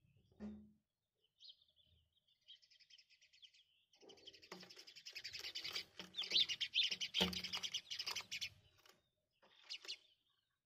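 A small bird chirping just outside a window: a few scattered chirps, then a rapid, dense run of chirping from about four seconds in, with another short burst near the end. A few dull knocks are mixed in.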